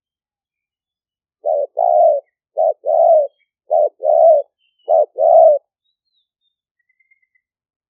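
Spotted dove cooing: four phrases about a second apart, each a short note followed by a longer one, in the call style of a decoy bird used to lure wild doves.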